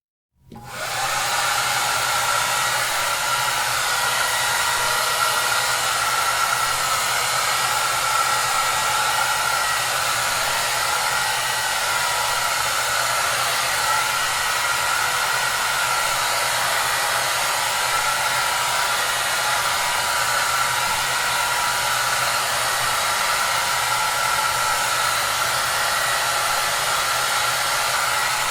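Hair dryer coming on within the first second, then running steadily: an even rush of blown air with a faint high whine and a low motor hum.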